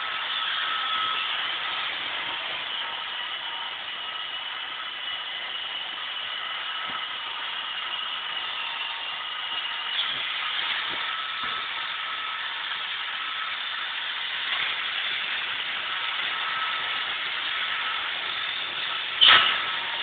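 iRobot Roomba robot vacuum running steadily, a whirring hiss with faint high whines from its motors; a sharp knock near the end.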